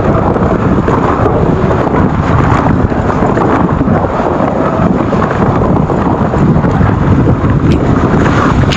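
Wind rushing and buffeting over the microphone of a mountain biker's camera as the e-MTB rolls down a trail. Tyre noise underneath, with scattered small knocks and rattles from the bike.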